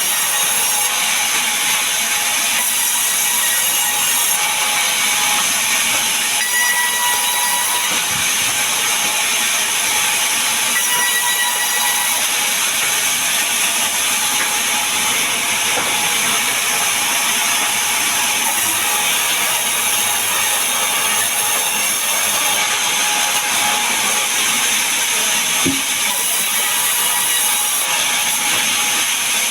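Power saw cutting mahogany and pine timber: a steady, unbroken cutting noise, mostly high-pitched.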